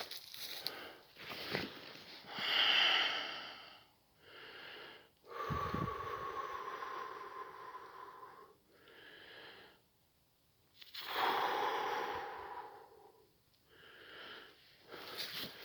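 Slow, heavy wheezy breathing: three long, loud breaths, each followed by a shorter, softer one, with a faint whistling tone in one of them.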